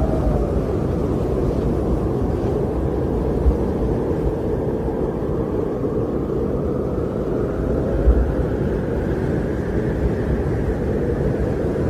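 Strong winter wind blowing in a steady, low roar that swells and eases slowly, with a faint whistle dying away at the start and a couple of brief low thumps.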